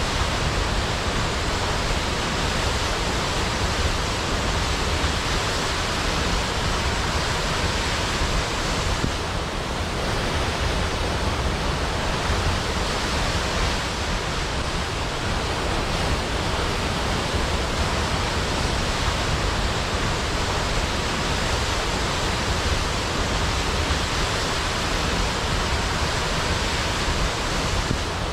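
Large waterfall cascading into a pool: a steady, dense rush of falling water.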